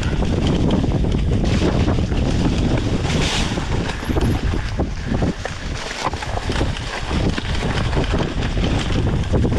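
Wind buffeting the microphone: a loud, gusty rumble mixed with irregular knocks and rattles.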